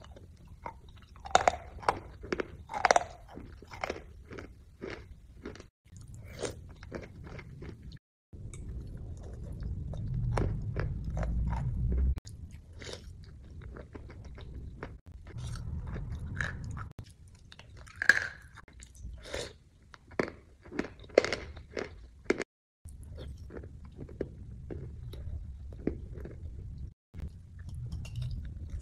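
Close-miked crunching and chewing of an icy white food taken off a spoon, with irregular sharp bites and crunches over softer chewing. The audio drops out briefly a few times.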